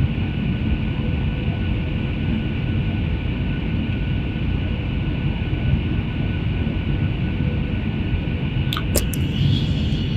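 Steady engine and airflow noise inside an airliner cabin on approach to land: a constant low rumble with a few steady whining tones over it. A few sharp clicks come near the end.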